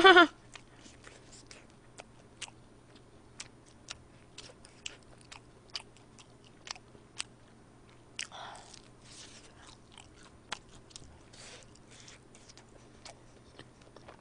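Close-miked eating of a fried mozzarella cheese stick: scattered wet mouth clicks of chewing throughout, and a longer, louder bite sound about eight seconds in. A short vocal sound at the very start is the loudest thing.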